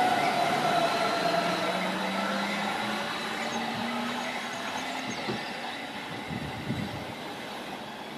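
A train on the line fading away, its rumble dropping steadily in level, with a couple of steady tones in it fading out. A few soft knocks come in the second half.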